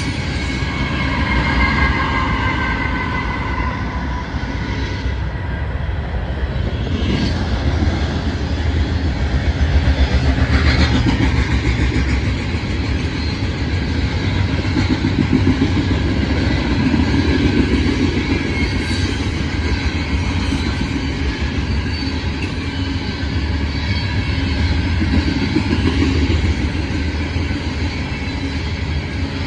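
A heavy loaded coal train rolling past close by: a steady rumble and clatter of hopper-car wheels on the rails. In the first few seconds, mid-train Norfolk Southern diesel locomotives pass with a high whine that sinks slightly in pitch and fades.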